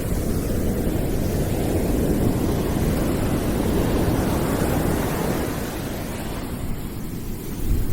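Deep rushing background noise from a calming noise track, strongest in the low range, swelling through the middle and easing off toward the end.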